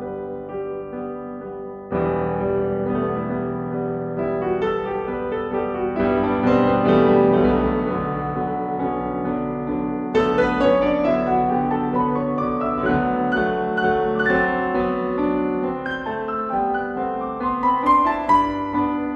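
Piano music in a classical style, with a fuller, louder passage coming in about two seconds in and another about ten seconds in.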